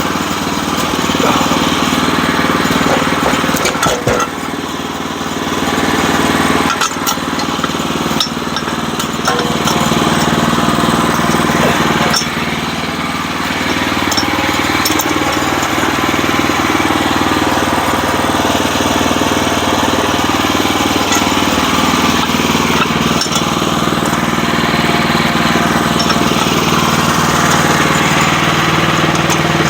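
Sawmill's gas engine running steadily under load, with a few sharp clicks and knocks along the way.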